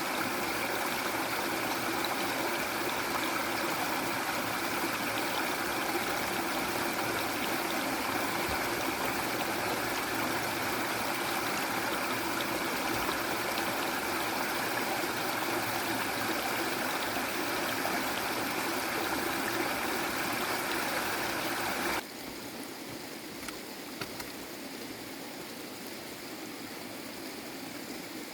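Steady rushing of running water, dropping abruptly to a quieter level about three-quarters of the way through.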